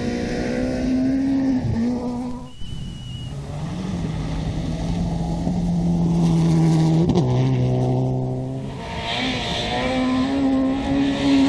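Rally car engine running hard with a steady, strong note, changing pitch sharply at gear changes, about two and a half seconds in and again about seven seconds in, with tyre noise from the car.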